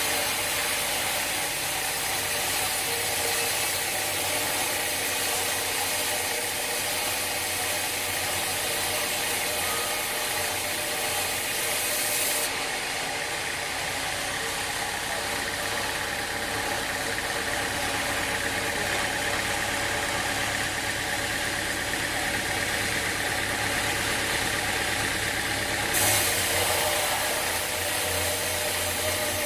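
Sawmill machinery running steadily with an engine-like drone. A high hiss above it cuts out abruptly about twelve seconds in and comes back near the end.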